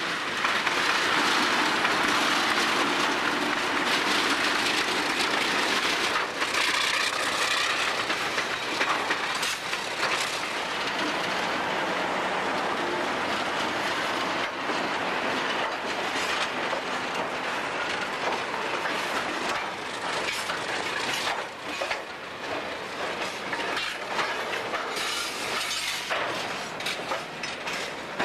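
A diesel-hauled train running on the rails: a steady, loud rush of wheel-and-rail noise with scattered clicks from the wheels.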